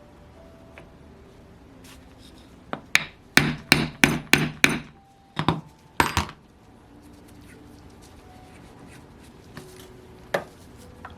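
Hammer tapping on a model glow engine's stuck crankshaft to drive it out of the crankcase: a quick run of about eight sharp taps, then one more near the end.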